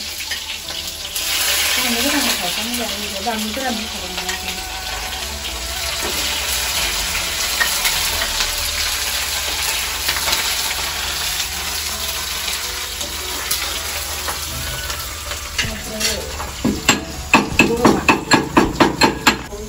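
Onions and spice paste sizzling in hot oil in an iron kadai as they are tipped in and stirred with a spatula, a steady frying hiss. Near the end comes a quick run of about ten sharp knocks, some four a second.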